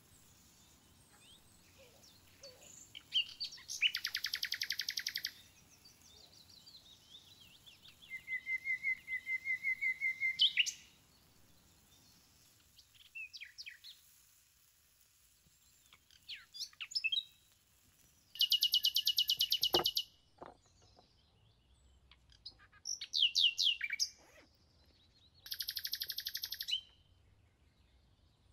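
Wild songbirds singing in woodland: short, fast trills that come back every few seconds, and a run of evenly repeated notes that sweeps upward at its end about ten seconds in, with scattered chirps between.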